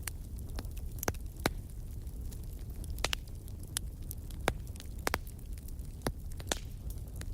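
Wood campfire burning: a steady low rumble of the flames with irregular sharp crackles and pops of burning wood, a dozen or so across a few seconds.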